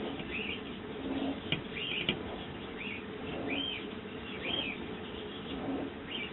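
Sparrows chirping, a string of short repeated chirps about one or two a second. Two sharp clicks sound about a second and a half and two seconds in.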